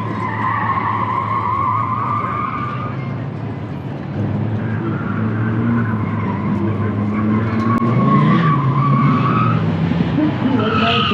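A car driven hard, its engine running under load and revving up near the end, with its tyres squealing in two long wavering squeals through corners.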